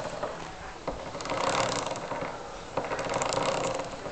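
A chain making an abnormal noise: a fast, dense clicking rattle that swells louder twice, with a few sharper clicks.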